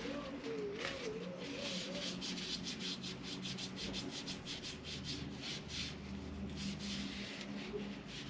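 Rhythmic rubbing or scraping strokes by hand, about four a second, during work on the RC car's hardware. A faint wavering tone sounds in the first two seconds.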